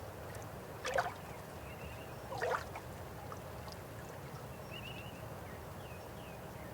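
River water flowing steadily, with two louder splashing gurgles, about a second and two and a half seconds in. Faint short high chirps come and go over it.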